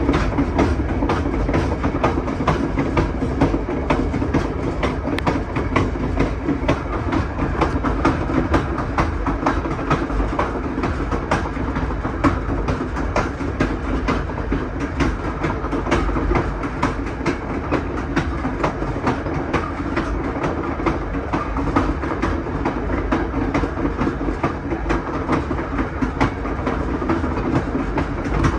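Passenger train running over jointed rail: the steady rumble of the cars with the wheels clicking over the rail joints many times in quick succession.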